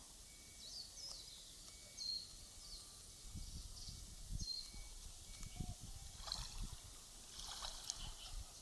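Small birds calling, short high chirps repeated about once a second, over low thuds and a couple of brief rustles from about three seconds in.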